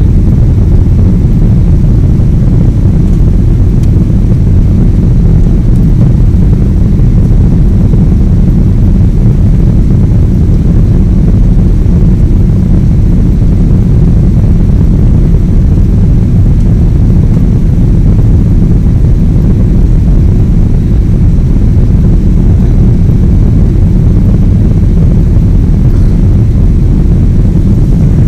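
Boeing 777's jet engines and airflow making a steady, loud low rumble that stays even throughout, with no rise or fall in pitch.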